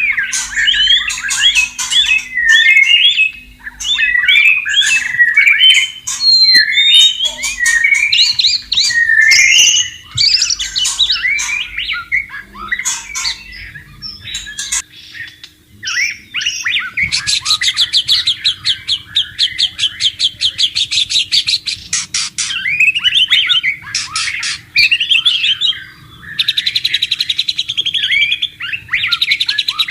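White-rumped shama singing: quick, varied whistled phrases, then about halfway a rapid buzzing trill held for several seconds, with a shorter one near the end.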